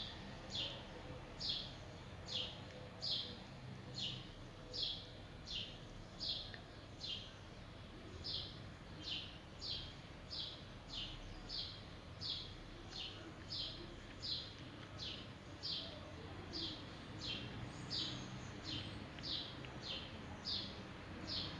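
A bird chirping over and over, a short falling note repeated about twice a second at a steady pace.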